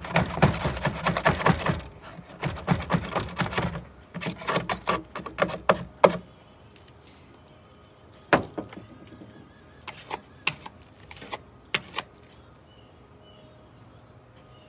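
Rapid scratching and rubbing for about six seconds, then a handful of separate sharp taps and knocks.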